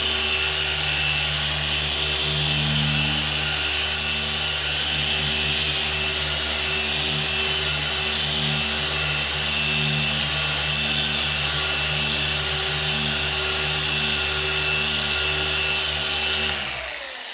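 Krauss S8 polishing machine running steadily on the car's paint, its hum swelling and easing a little under the pad's load; near the end it is switched off and winds down with a falling pitch.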